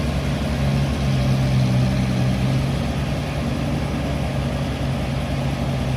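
Diesel engine of a Mitsubishi Canter dump truck running steadily at a low, even speed.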